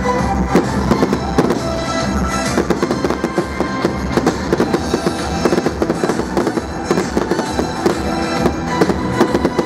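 Fireworks display: a dense run of bangs and crackling shells going off one after another, with music playing underneath.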